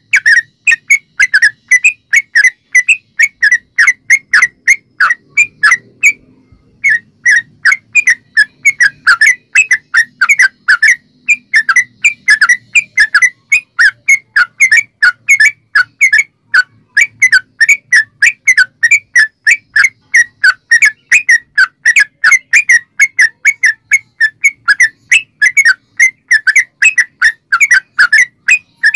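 Yellow-vented bulbul (trucukan) singing a long, fast run of short whistled notes, about four or five a second, with one brief pause about six seconds in.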